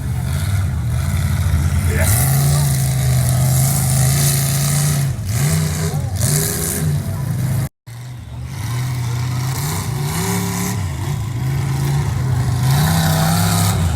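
Mud bog truck's engine revving hard, its pitch climbing and falling repeatedly, over a loud rushing hiss. The sound cuts out for an instant about halfway through, then the revving goes on.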